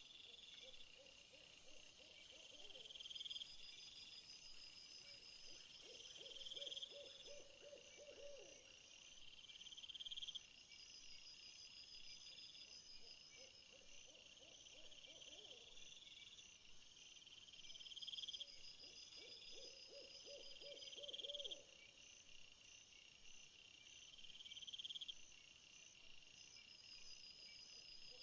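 Faint insect chorus of crickets, with short rising chirps repeating every second or two and rapid pulse trains higher up. Under it, a lower pulsed call comes in about every six seconds.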